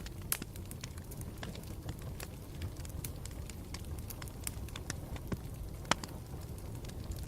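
Campfire burning with a low steady rumble and irregular sharp crackles and pops, the loudest pops about a third of a second in and near six seconds in.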